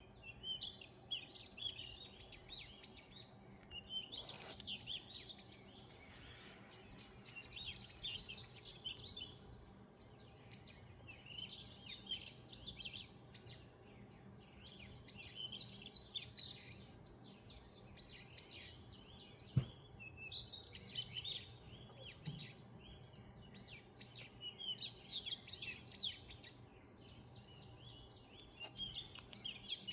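Songbird singing outdoors: rapid, high twittering phrases about two seconds long, repeated every few seconds with short pauses between. A single brief knock sounds a little past halfway.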